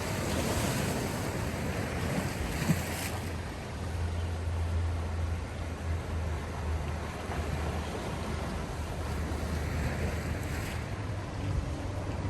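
Sea waves washing in, with two swells of surf about a second and ten seconds in, under a low rumble of wind on the microphone.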